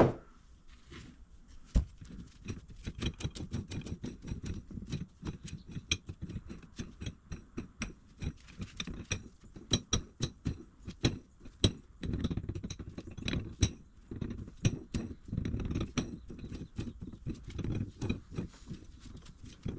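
The captive nut of a 6-inch Kobalt bench vise being run down its steel lead screw: a long string of small, irregular metal clicks and light rattles over a low rumble that swells and fades.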